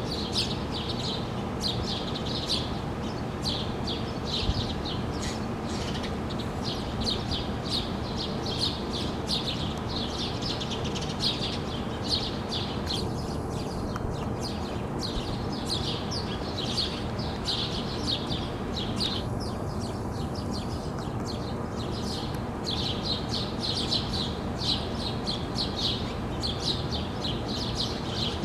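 Small birds chirping: short high chirps in quick succession, several a second, easing off briefly twice, over a steady low background rumble.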